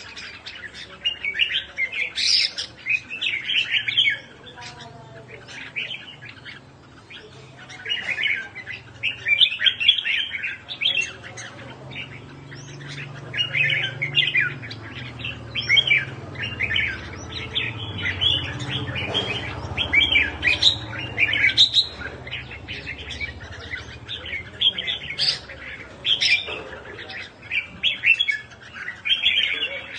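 A small songbird chirping and singing in quick, high-pitched phrases, bout after bout with short gaps.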